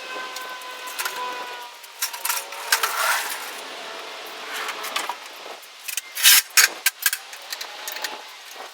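Duct tape being pulled off the roll in short, loud tearing bursts, the loudest in a quick run about six to seven seconds in, with handling noise between.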